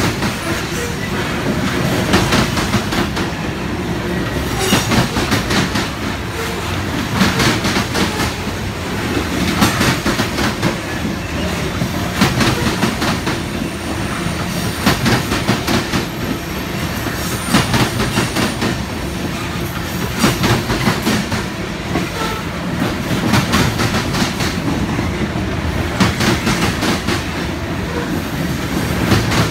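Covered hopper cars of a freight grain train rolling past with a steady rumble. Clusters of wheel clacks come about every two and a half seconds as each car's wheel sets cross the rail joints.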